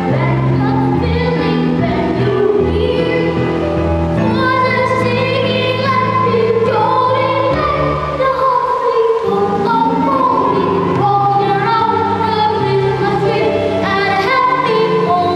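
Children's choir singing a Christmas carol, with sustained low accompaniment notes underneath.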